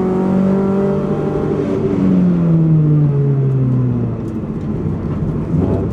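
Opel Corsa B rally car's engine heard from inside the cabin, held at high revs, then its note falls steadily for about two seconds as the car slows for a coned chicane. It turns rougher and lower for a moment before picking up again at the very end.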